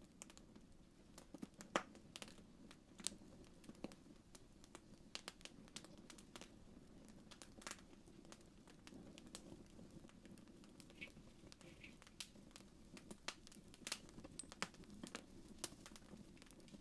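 Wood fire crackling faintly in a fireplace: irregular pops and snaps over a steady low rumble.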